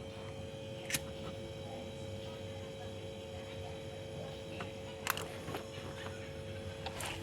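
Refrigerator compressor running with a steady hum during a freon recharge, with a few sharp clicks about a second in, around five seconds and near the end.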